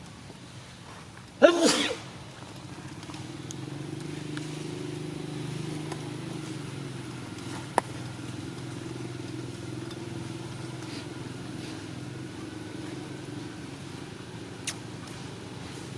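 A steady low motor hum, like an engine running. It is preceded by one short, loud, shrill sound about a second and a half in, and two sharp clicks come later.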